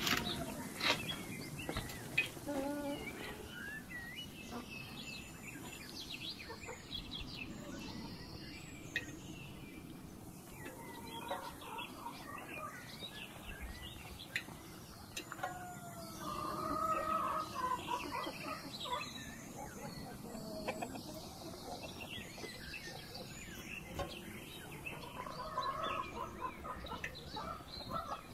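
Chickens clucking and calling in the background, with small birds chirping; a few sharp taps near the start.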